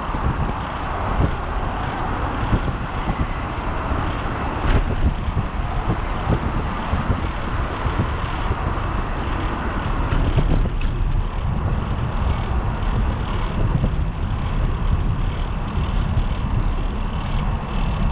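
Wind buffeting the microphone of a bicycle-mounted camera during a ride, over a steady rumble from the bike. A few sharp clicks come through about five seconds in and again around ten to eleven seconds in.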